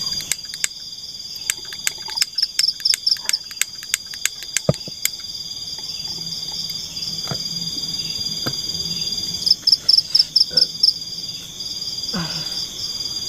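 Night forest chorus of insects and frogs: a steady high-pitched drone, with two runs of rapid pulsed calls, one about two seconds in and one near ten seconds. A string of sharp clicks sounds through the first five seconds.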